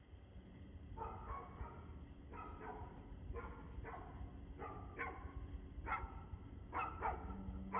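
A dog barking over and over, single barks and quick pairs about once or twice a second, over a low steady background rumble.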